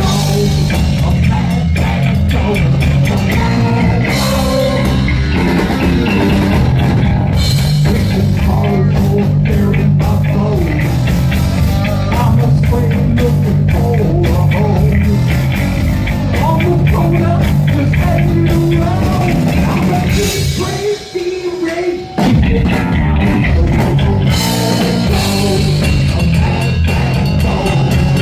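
Heavy metal band playing live: distorted electric guitars, bass and a pounding drum kit. The band stops dead for about a second roughly three-quarters of the way through, then crashes back in.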